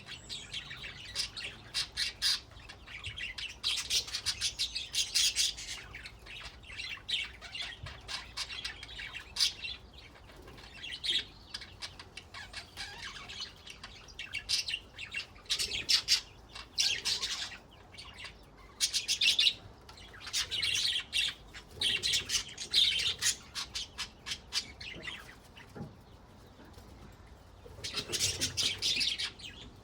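Budgerigars chattering and warbling, a dense run of fast chirps and squawks in bouts with brief lulls.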